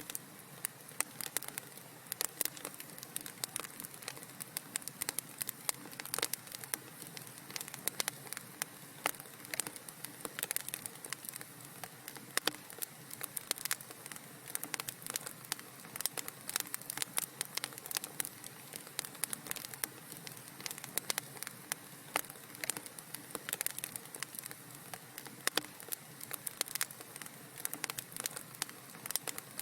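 Wood fire crackling in a fireplace: steady hiss with dense, irregular sharp pops and snaps.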